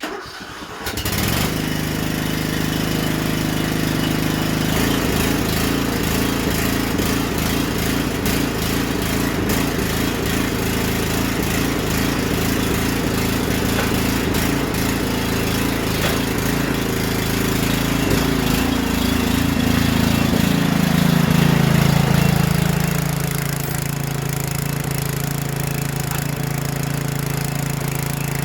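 Riding lawn mower's engine starting up and running steadily. About 21 seconds in it briefly grows louder, then drops to a lower, steadier note.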